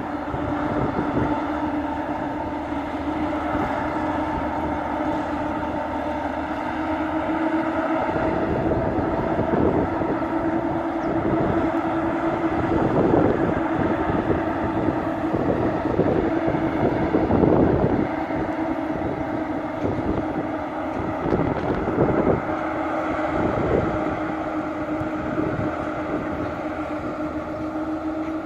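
A freight train passing on the rails, with a steady hum throughout and irregular clacks and knocks of wheels on the track from about eight seconds in.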